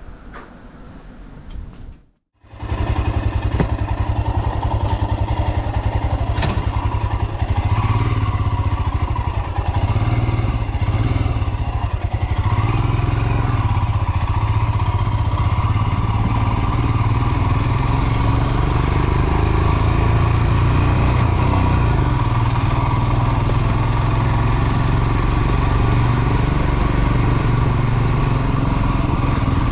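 Royal Enfield Himalayan's 411 cc single-cylinder engine running loud and close, cutting in abruptly after a brief gap about two seconds in, its revs rising and falling.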